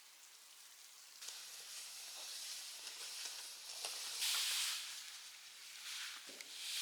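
Snowstorm outdoors: a steady hiss of wind and blowing snow that turns louder about a second in and swells in two gusts, with faint ticks of snow striking.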